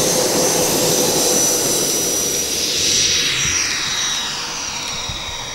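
Twin 70 mm twelve-blade electric ducted fans of a radio-controlled Boeing 737 MAX 8 model whining in flight. About three seconds in, the whine drops in pitch as the model passes, then fades.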